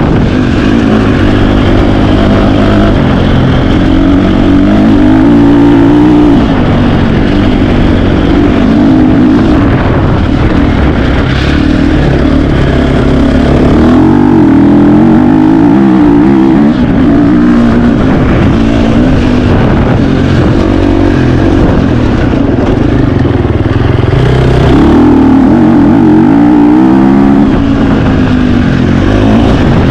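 2025 KTM 350 XC-F single-cylinder four-stroke dirt bike engine, loud and ridden hard, its pitch rising and falling continuously with throttle and gear changes.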